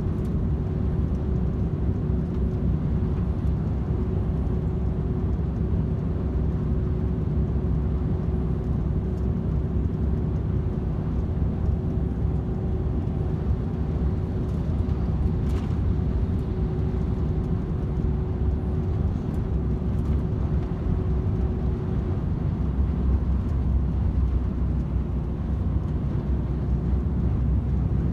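DAF XF 510 tractor unit cruising on the motorway: a steady low engine drone with road and tyre noise. A steady hum runs along with it and fades out about 22 seconds in.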